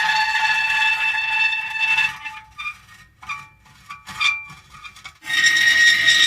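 Metal creaking: a long, high-pitched creak that stops about two seconds in, a few short creaks, then another long creak near the end.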